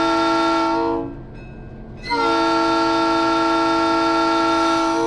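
Locomotive horn sounding a steady multi-note chord: a long blast that ends about a second in, then after a one-second pause a second long blast of about three seconds.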